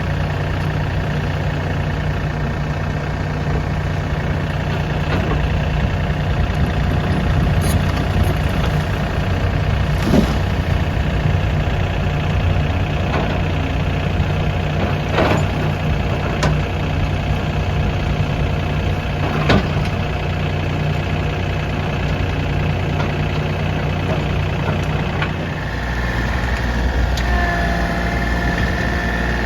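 Excavator's diesel engine running steadily, with several sharp cracks and snaps at irregular intervals. Near the end the engine note deepens and gets louder, and a wavering higher whine joins it.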